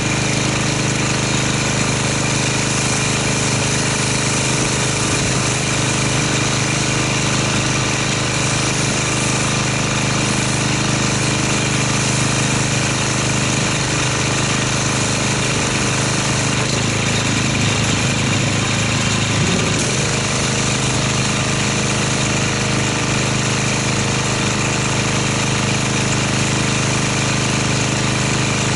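Pressure washer running steadily, its pump giving a constant buzzing note under the hiss of the water spray as the soap is rinsed off a car.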